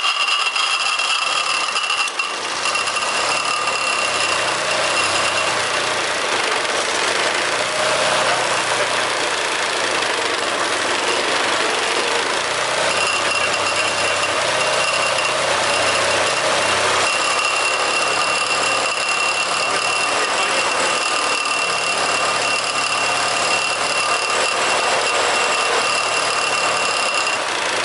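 Car engine mounted in a scooter, running steadily at idle after being started, with a thin high whine over the engine note.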